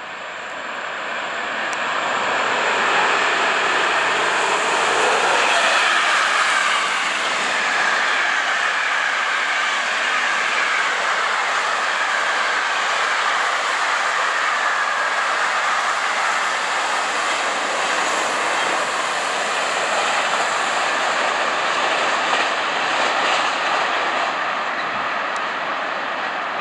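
Train running past on the station track. The noise rises over the first three seconds and then holds steady, with a whine that falls slowly in pitch through the middle.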